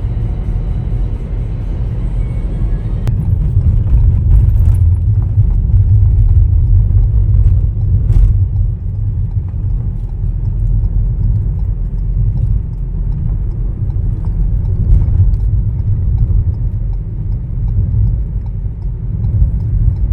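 Steady low road and wind rumble of a vehicle driving along, with a couple of brief clicks a few seconds in.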